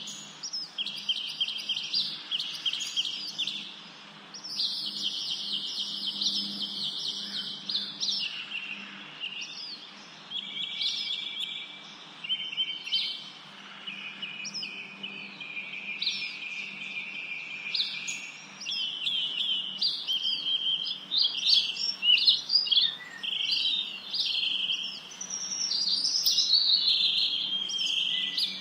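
Birds singing and chirping continuously, several overlapping, with rapid trills and quickly repeated high notes.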